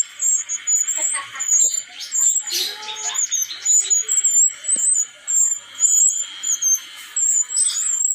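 Newly wild-caught brown-chested jungle flycatchers chirping: a continual run of short, high-pitched calls, one after another.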